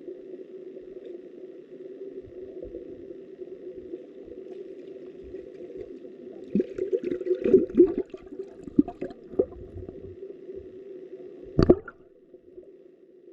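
Muffled rush of river water heard through an underwater camera, with a cluster of knocks and gurgles from about six to nine and a half seconds in and one sharp knock shortly before the end.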